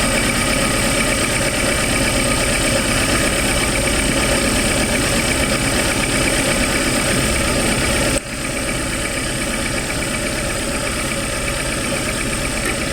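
Suzuki APV engine idling roughly with one cylinder dead, because one ignition coil is getting no supply: the cause of the engine shaking. The level drops suddenly about eight seconds in, and the engine runs on a little quieter.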